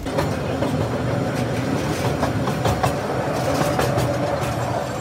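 Passenger railway carriage running along the track into a short rock tunnel, heard from an open carriage doorway: a steady rumble of the wheels with irregular clicks and clatter over the rails, and a faint steady whine through the middle.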